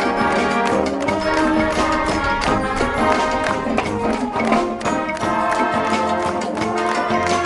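High-school marching band playing live: brass ensemble with drums, the brass sustaining chords over regular percussion strikes.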